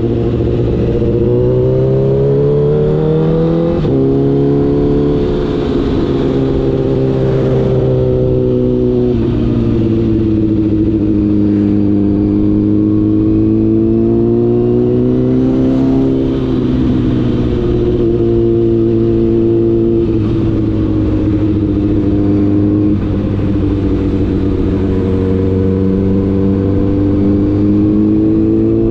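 Honda CBR1000RR's inline-four engine under way, its note climbing under throttle and dropping suddenly several times as the gears change, then easing and climbing again.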